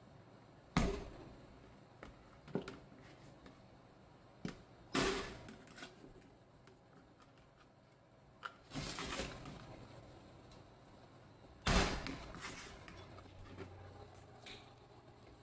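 Knife chopping raw chicken into pieces on a cutting board: sharp chops at irregular intervals, with a longer scraping stretch about nine seconds in.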